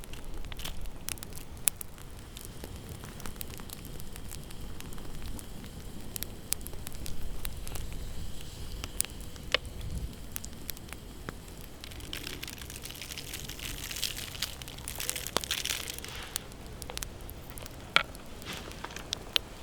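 Wood campfire crackling, with sharp pops scattered irregularly throughout and a louder stretch of hiss about two-thirds of the way through.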